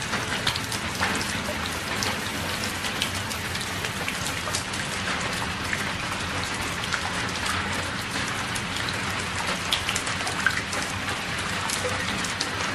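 Steady rain falling, with many separate drop hits heard through a continuous hiss.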